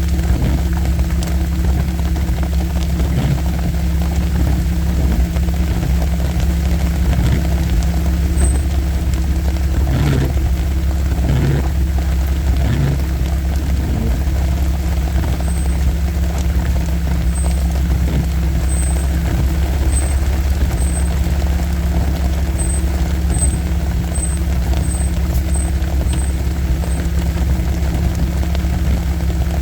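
Vehicle engine running with a steady low drone, heard from inside the cabin while driving slowly along an off-road trail. A few knocks come about ten to thirteen seconds in, and faint short high beeps repeat in the second half.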